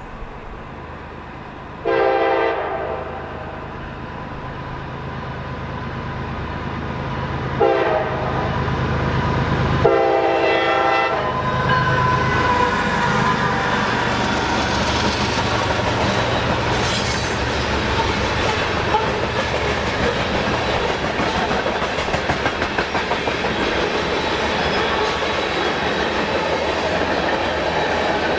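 CSX diesel-hauled freight train approaching and sounding its horn three times: a long blast, a short one, then a longer one. The locomotive engines then pass, followed by freight cars rolling by with steady wheel noise and clickety-clack over the rail joints.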